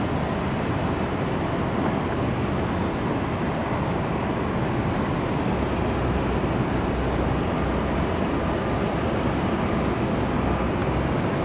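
Jet airliner's engines at takeoff thrust during the takeoff roll: a steady rushing noise with a faint high whine, the low rumble growing stronger about halfway through.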